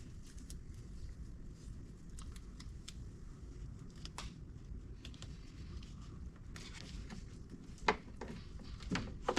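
Hands taping up the rubber wiring boot: faint clicks and snips of tape and wire handling over a low steady hum, with two sharper clicks near the end.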